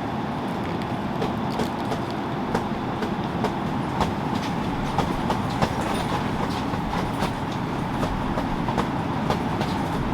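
Steady rain falling, with irregular heavier drops tapping sharply through the even hiss.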